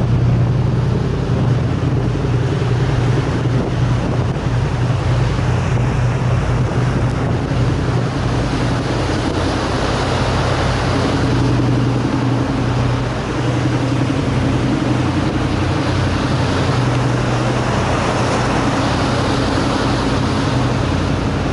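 Strong wind and rough sea surf in typhoon swell, with a steady low engine hum running underneath.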